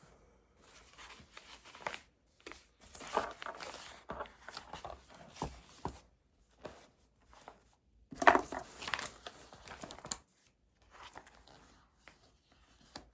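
Study materials being handled on a desk: irregular rustling and crinkling with a few small clicks and knocks, loudest about eight seconds in.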